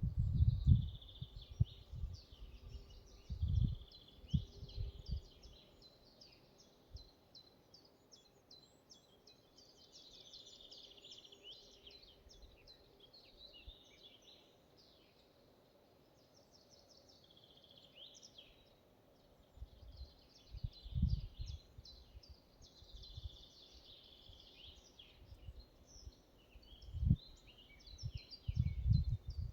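Forest ambience with several songbirds singing and chirping throughout. Irregular low rumbling bursts come in the first few seconds and again through the last third.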